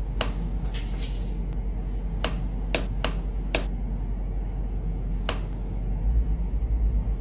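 About seven sharp taps at irregular intervals over a steady low hum.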